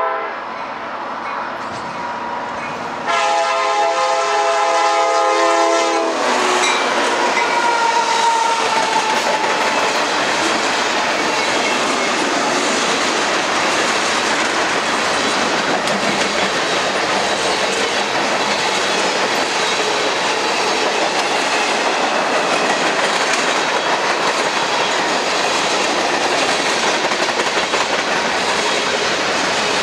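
Freight locomotive horn blowing for a grade crossing: one blast ends just after the start, and another runs from about three to six seconds in. Then the CSX freight train rolls past close by, a steady rumble with wheels clacking over the rail joints.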